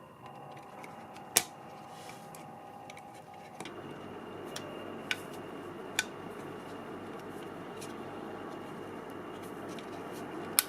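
A few sharp, separate clicks and taps of small hand work, over a steady hum that becomes a fuller, noisier hiss about three and a half seconds in.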